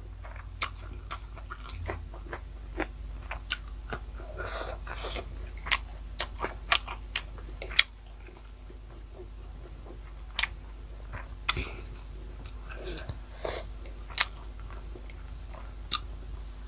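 Close-miked eating of a mouthful of rice and pork: chewing with wet lip smacks and sharp mouth clicks at irregular intervals.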